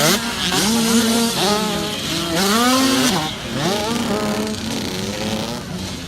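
Several motocross bikes' engines revving hard, their pitch rising and falling over and over as the bikes accelerate and back off.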